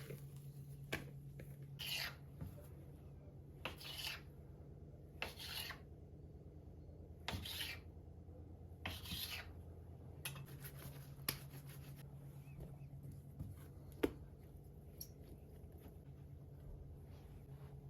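Repeated short rubbing swishes, one every second or two, from hands-on kitchen work, over a faint steady low hum.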